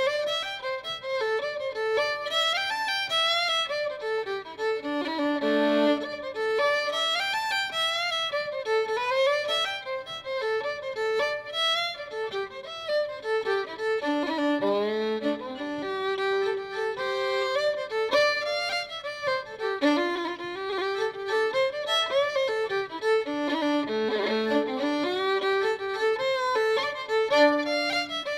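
Violin music: a solo line of quick, running notes that rise and fall continuously.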